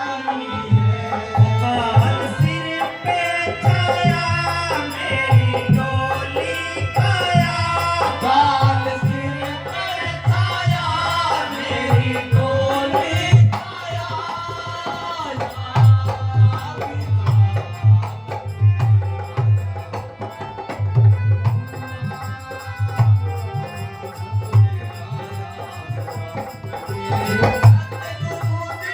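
Devotional shabad sung at a satsang, a melody over a steady rhythm of hand-drum strokes.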